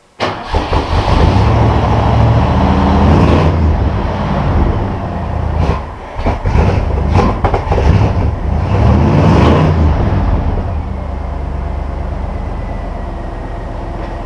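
The 1959 Ford pickup's fuel-injected 302 V8 catches suddenly and runs loud, revving up and down unevenly. After about ten seconds it settles into a steadier idle.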